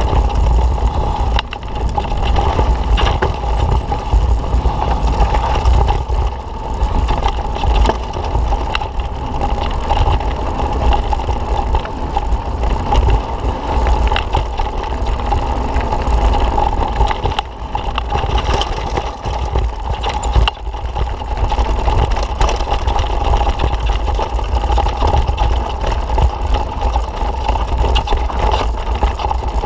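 Mountain bike rolling over a rough dirt trail: tyres crunching and bike parts rattling and clicking, with wind rumbling on the camera microphone and a steady whine throughout.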